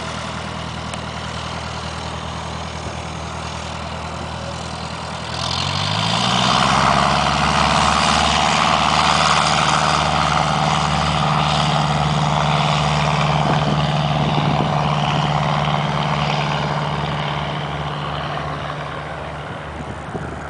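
Light airplane's propeller engine running at low power, then opened up about five seconds in. The pitch rises and it gets much louder as takeoff power is applied, then holds steady and slowly fades near the end as the plane moves away.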